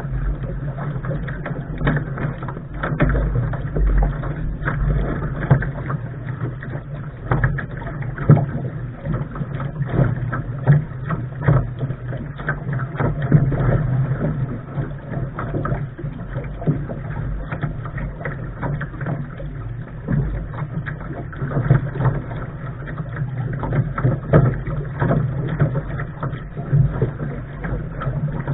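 Lark sailing dinghy under way: wind rumbling on the microphone and water rushing and slapping at the bow, with many irregular short splashes and knocks.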